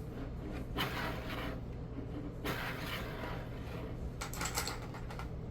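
Small plastic LEGO pieces being handled and fitted together: three short bouts of rustling and light clicking, over a low steady hum.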